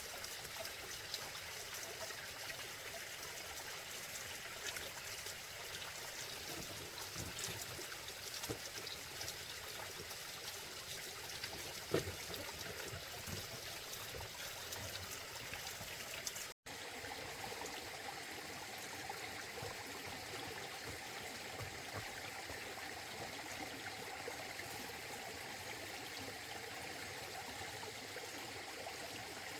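Steady running water, a small stream or trickle flowing. There is a single sharp tap about twelve seconds in, and a brief dropout a little past halfway.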